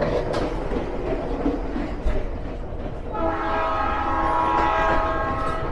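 Running noise of a Budd RDC (Rail Diesel Car) train heard from the vestibule between cars, rumble and rattle with a couple of sharp clicks. About three seconds in, a train's several-note air horn sounds, held steady for about two and a half seconds.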